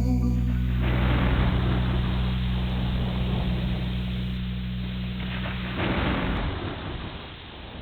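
Rain and rolling thunder over the band's last held low chord, which dies away after about six seconds; the storm noise swells twice and then fades out.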